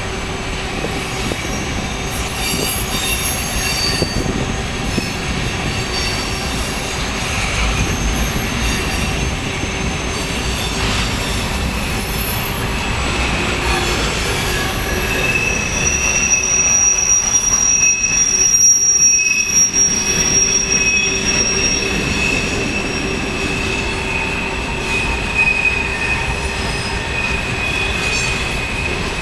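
Empty coal hopper cars of a freight train rolling past, a continuous rumble with steady high-pitched squealing from the wheels against the rails. A sharper squeal comes in about halfway through and holds for several seconds.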